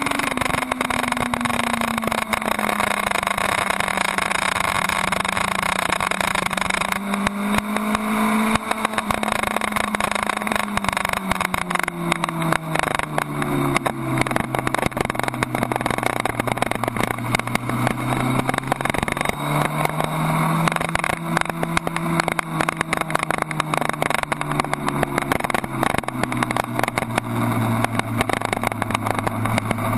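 Suzuki Hayabusa's inline-four engine running at speed on track, its revs rising and falling through the corners, settling lower about halfway through. Heavy wind rush over the bike-mounted microphone runs underneath.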